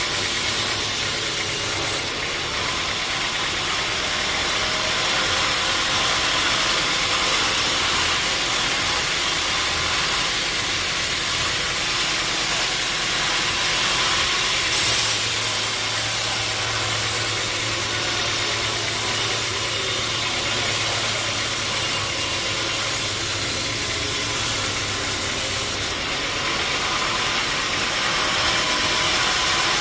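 Sawmill machinery running: a steady engine drone under loud hissing saw and mill noise. The sound shifts abruptly about two seconds in, about halfway through, and again near the end.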